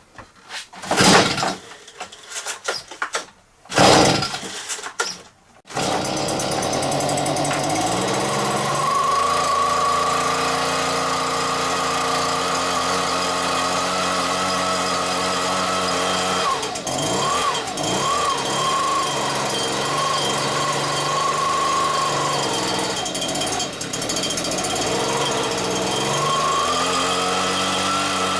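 Freshly rebuilt Stihl BR86c leaf blower's two-stroke engine pull-started: two pulls of the recoil cord, then it catches and runs. Its speed rises, dips and wavers twice as it is blipped and tuned, then rises again near the end.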